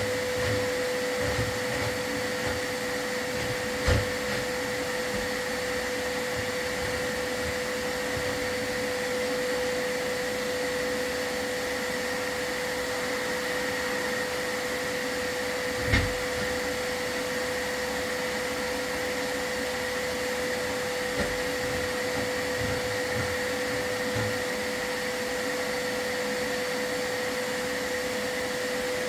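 Chimney sweep's vacuum running steadily with a constant whine, with two short knocks, about four seconds in and again about twelve seconds later.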